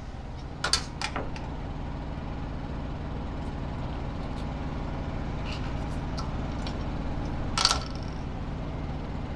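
Steady low hum of an idling diesel truck engine, with a few sharp clicks about a second in and a louder clack late on.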